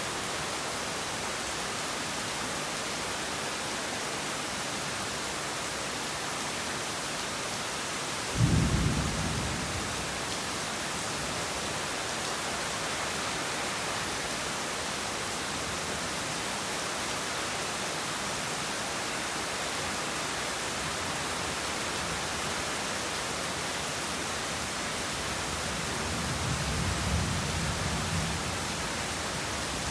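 Heavy rain falling steadily, with a sudden thunderclap about eight seconds in that dies away over a second or two, and a softer, longer rumble of thunder near the end.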